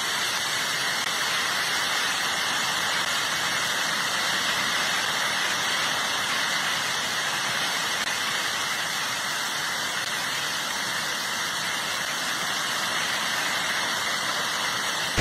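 A steady rushing hiss that holds at the same level throughout, with no distinct knocks, crashes or voices.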